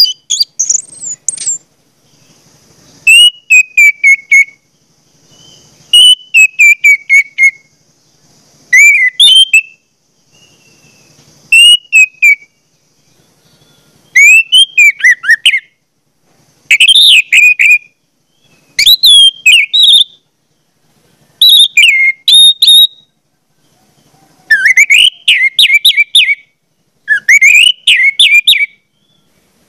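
A bird singing: short phrases of rapid, high whistled notes that sweep downward, repeated about every two and a half to three seconds.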